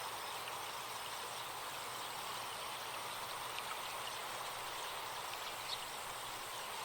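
Forest stream flowing steadily, with a few faint bird chirps.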